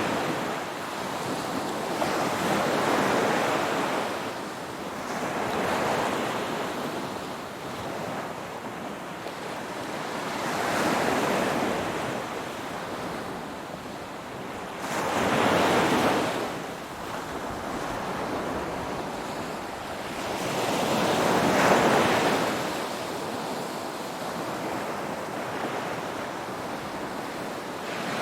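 Ocean waves breaking, a steady wash of surf that swells and recedes in about five slow surges, the loudest two in the second half.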